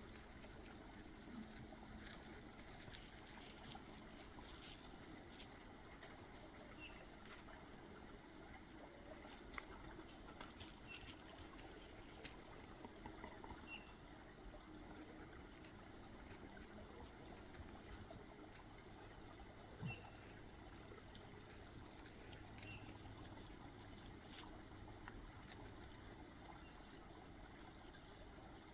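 Faint forest ambience: scattered small clicks and crackles over a quiet, even background, with a short high chirp every few seconds.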